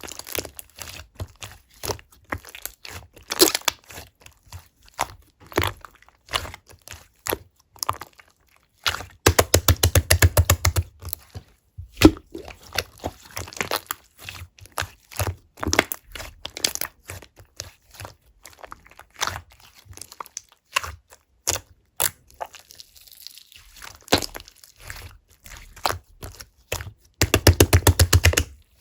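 Slime being squished, poked and stretched by hand: wet clicks and pops, with two stretches of fast crackling pops, about ten seconds in and again near the end.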